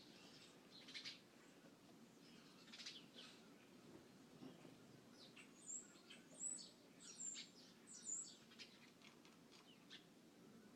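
Small birds at a feeder chirping faintly: scattered short, high chirps, with a quick run of sharper high notes between about five and eight seconds in.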